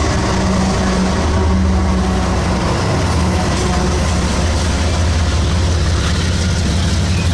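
CSX GE ES44AC-H diesel-electric locomotive passing close, its GEVO V12 diesel engine running with a loud, steady low drone over the noise of the train, with double-stack intermodal well cars starting to roll by near the end.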